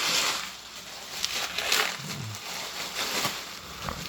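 Plastic and tape packaging on a parcel rustling and crinkling in irregular bursts as it is handled and pulled open.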